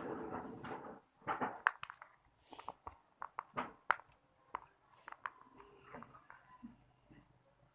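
Liquid soap sputtering out of a squeezed bottle into a slime container for about the first second, then scattered small clicks and taps as the bottle and container are handled.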